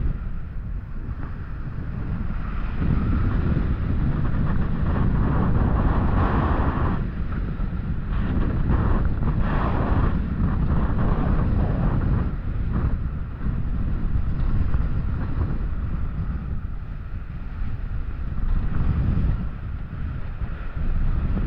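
Wind buffeting the microphone of an on-ride camera, over the rumble of an Intamin roller coaster train running along its steel track. The noise swells and eases several times as the train's speed changes.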